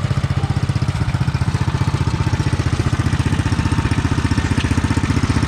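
Small tractor engine running steadily close by, with an even, rapid pulsing note.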